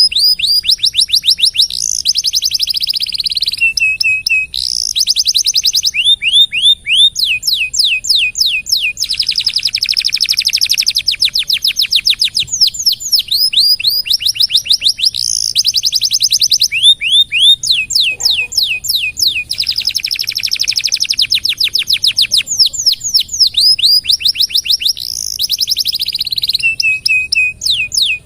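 Domestic canary singing a long, continuous song: runs of quick sweeping chirps alternating with long rolling trills that each last a couple of seconds.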